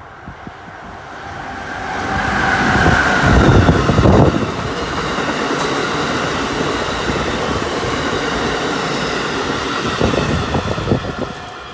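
Amtrak Northeast Regional train, hauled by an ACS-64 electric locomotive, passing at speed. The sound builds to its loudest as the locomotive goes by about three to four seconds in. Then the coaches rush past with a steady rumble and clatter of wheels on the rails.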